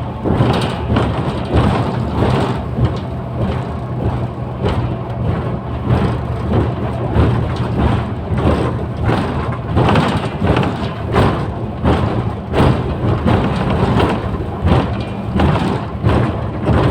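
Mercedes-Benz O530 Citaro city bus running, heard from inside: a steady low engine drone with frequent knocks and rattles from the body.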